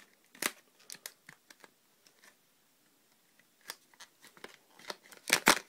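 Product packaging being handled and worked at: scattered crackles and clicks, a quiet spell in the middle, and a louder cluster of crackles near the end.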